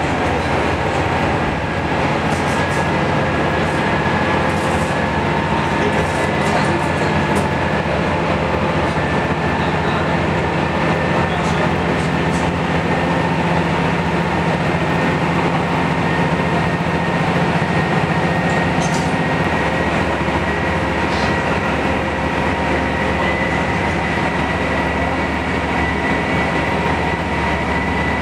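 Train running along the track, heard from inside the passenger car: a steady rumble of wheels and running gear, with a thin high whine that rises slightly in pitch.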